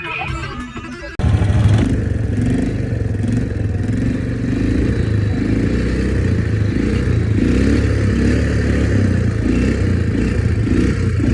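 Music for about a second, cut off abruptly by a loud, steady low rumble of a vehicle in motion.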